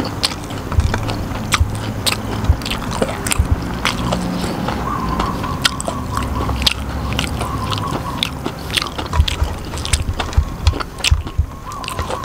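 Close-up crunching and chewing of crispy deep-fried enoki mushrooms, a rapid, irregular run of sharp crisp crunches throughout.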